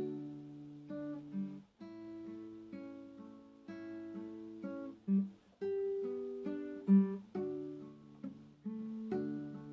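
Acoustic guitar playing slow, calm plucked chords and single notes, each left to ring out, with a few louder low notes in the middle.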